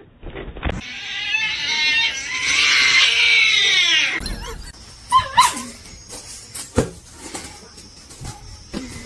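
A loud, drawn-out animal cry lasting about four seconds, followed by a couple of short squeaky calls and a single knock.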